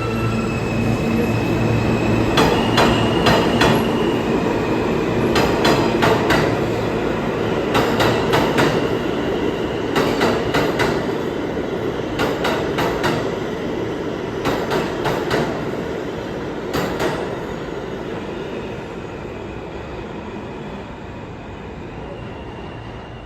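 New York City subway train running past on the station track, a steady rumble broken by clusters of wheel clacks over the rail joints every couple of seconds as each car goes by. The clacks stop after about 17 seconds and the train sound fades as it moves away.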